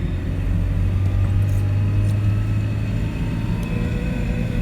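Car engine and road noise inside the cabin while driving: a steady low drone.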